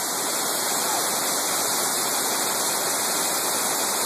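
Rushing water of a waterfall or cascade over rocks, a steady roar of noise.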